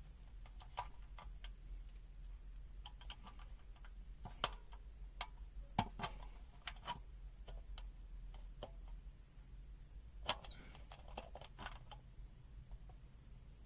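Faint, irregular clicks and taps from a digital multimeter being handled, its buttons and rotary function selector being worked to switch functions.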